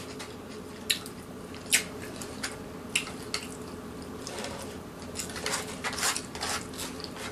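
Close-up chewing and wet lip-smacking: scattered sharp mouth clicks, with a denser run of smacking about five to six seconds in, over a steady low hum.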